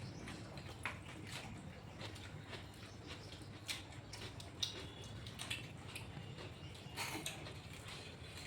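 Wet mouth sounds of a person eating curry and rice by hand: irregular soft smacks, clicks and squishes of chewing, over a low steady hum.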